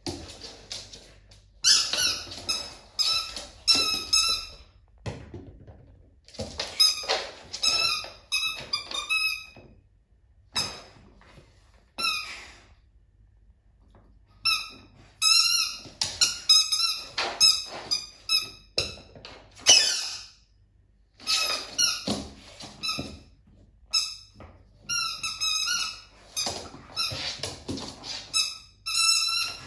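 Squeaky dog toy squeaking over and over, in quick runs of short high squeaks with brief pauses between the runs.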